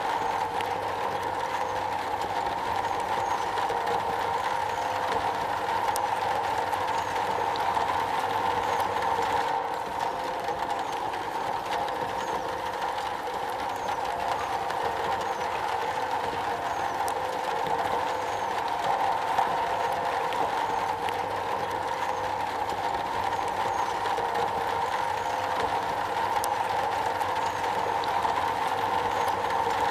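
Steady rain falling on a metal roof: a constant, dense patter with scattered light ticks.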